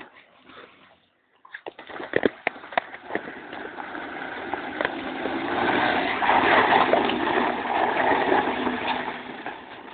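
A car driving over loose dirt, with a few sharp clicks of stones, then a rushing noise of tyres and spraying dirt that builds and then fades.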